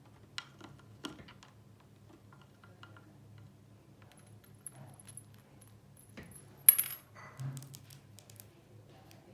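A few light clinks and taps of small hard objects, the loudest a sharp clink about two-thirds of the way in, over a low steady hum.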